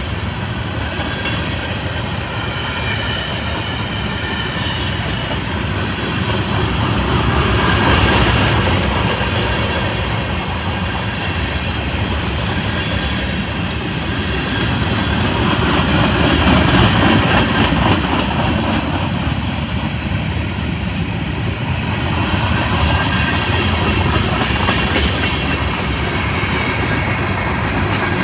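Train passing close by: a steady rumble of wheels rolling on the rails that swells a little about a third of the way in and again past the middle.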